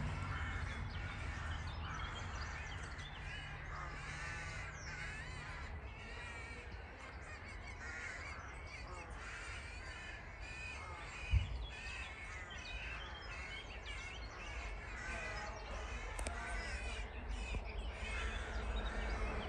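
Birds calling over and over with short, harsh cawing calls, with a single low thump about eleven seconds in. Near the end, the rushing noise of an approaching high-speed train starts to build.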